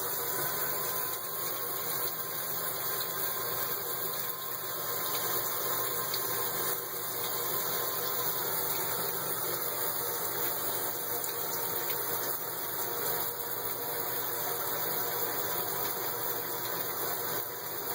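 Water spraying steadily from a water-powered LED shower head, an even hiss of running water.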